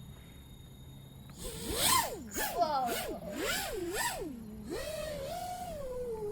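FPV racing quadcopter's brushless motors spinning up about a second and a half in, their whine sweeping up and down in pitch several times with the throttle before settling into a steadier wavering hum. One of the quad's motors is bad, which shows as a slight jiggle in flight.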